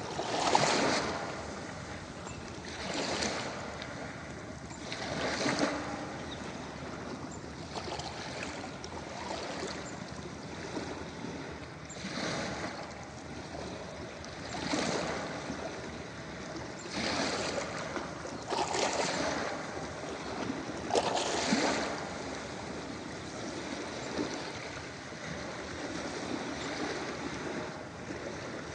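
Ocean waves breaking on a beach: a steady wash of surf, with a louder surge every few seconds as each wave comes in.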